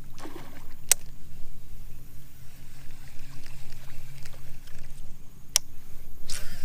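Small paddle craft moving on the water: two sharp knocks, about a second in and near the end, and a couple of short swishes, over a steady low hum.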